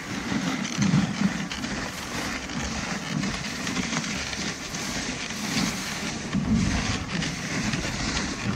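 Dog sled running over packed snow behind a husky team: a steady scraping hiss from the runners, with an uneven low rumble.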